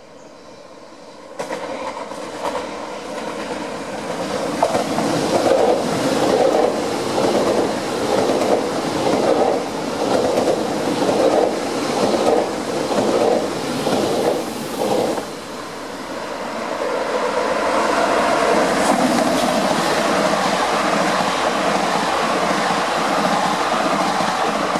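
Double-deck electric commuter train passing close by, its wheels clicking over the rail joints in an even rhythm of about two strokes a second, followed by the steadier running noise of a second train.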